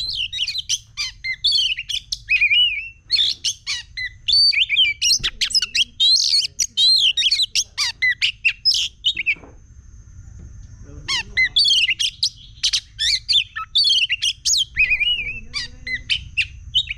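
Oriental magpie-robin (kacer) singing an excited, fast run of varied whistles and harsh notes, the agitated song used to lure and fire up other birds. The song breaks off for about a second and a half midway, then resumes.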